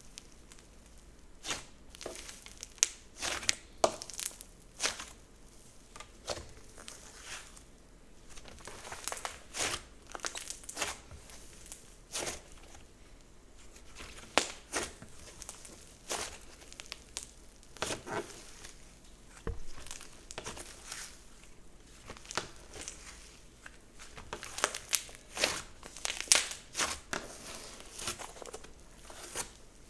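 Slime being worked by hand, making irregular sharp pops and clicks, many of them, spread throughout.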